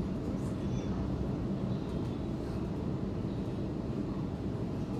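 Steady low rumble of an electric suburban train running between stations, heard from inside the carriage: wheels on the track and running gear.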